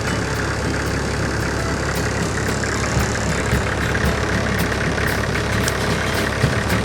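Off-road vehicle's diesel engine running steadily, with a few light clicks.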